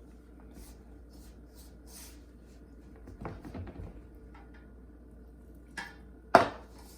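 Dough being mixed in a bowl: a few soft knocks and scrapes about three seconds in, then a sharp knock against the bowl near the end.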